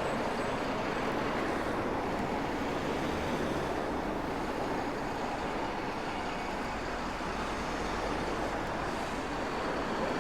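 Steady outdoor street noise: passing road traffic mixed with wind buffeting the microphone, an even rumble with no distinct events.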